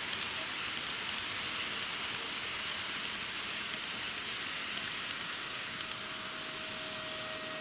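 N gauge model train running on its track: a steady rolling hiss with many fine rapid clicks from the wheels on the rails. A faint steady motor whine comes in near the end.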